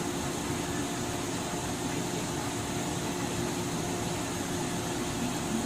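Steady hum and hiss from the onboard auxiliary machinery of a stationary 103 series electric train car, with no traction motor or wheel sound.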